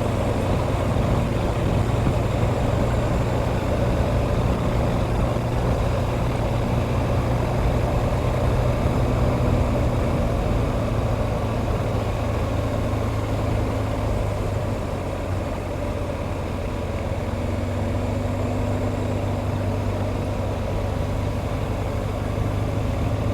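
BMW GS motorcycle engine running steadily at road speed with a hiss of wind, easing off slightly about two-thirds through and picking up again near the end.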